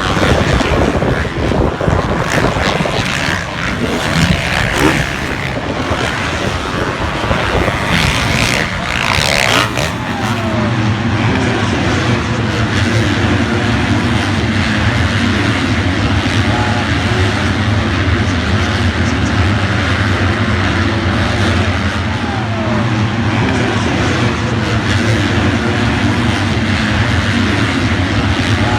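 Motocross motorcycle engines running loud. From about ten seconds in, a steady low engine drone at constant speed dominates.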